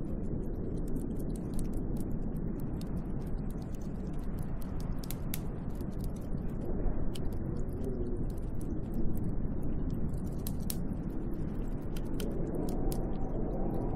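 Snowstorm wind blowing steadily with a low rush and a faint wavering howl, while many light ticks of driven snow patter against the hut.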